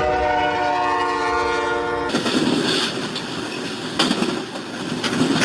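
Train horn sounding a steady chord of several notes, cut off abruptly about two seconds in. A rushing, rumbling noise follows, with a sharp knock about four seconds in.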